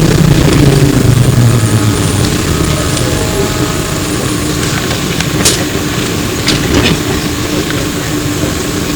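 Inside a Flyer E902 trolleybus: the electric traction drive's hum falls in pitch over the first couple of seconds as the bus slows, then settles into a steady tone. A few short clicks and rattles come around the middle.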